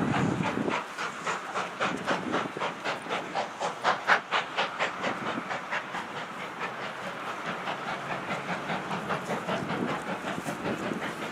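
Steam locomotive and its train running, with a rapid even beat of about four a second over a steady hiss.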